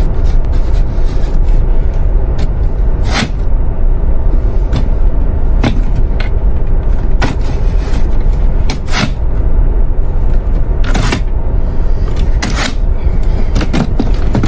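Airliner cabin noise: a steady low rumble of engines and rushing air, broken now and then by short knocks and clicks.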